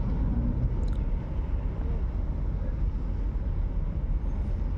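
Steady low rumble of a ship's engine, with a fluttering, uneven level.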